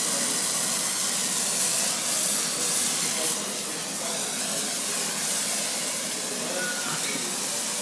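Brazing torch flame burning with a steady loud hiss as it heats copper refrigerant line joints.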